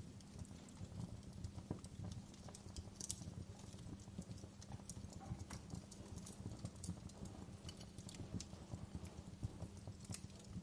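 Wood fire crackling in a fireplace: irregular sharp pops and snaps over a soft low rumble of the flames.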